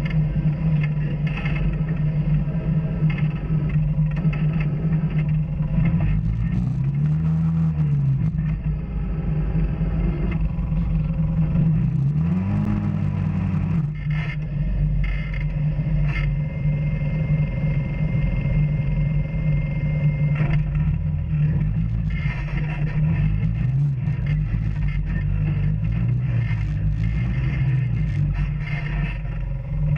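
Off-road vehicle engine running steadily on a trail. It revs up and eases back a few times: once about a quarter of the way in, again near the middle, and in several smaller surges toward the end.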